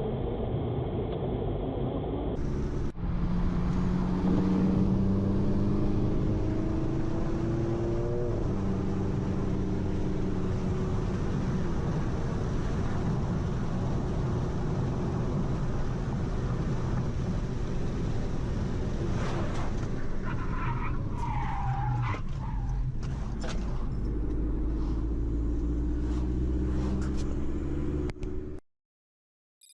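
Car engine and road noise from inside a moving car, the engine note rising as it accelerates, with a brief tyre squeal about twenty seconds in; the sound cuts off abruptly near the end.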